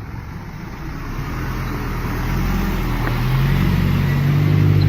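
Motor vehicle engine running and growing steadily louder, with a low engine drone coming in about halfway through.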